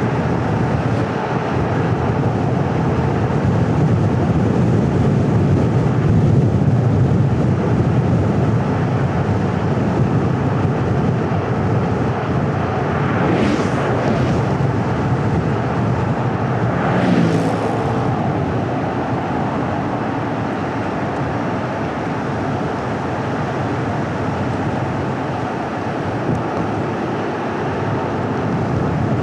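Steady road and tyre noise of a car driving along a winding road. Two short whooshes of passing vehicles come about 13 and 17 seconds in, the second falling in pitch as it goes by.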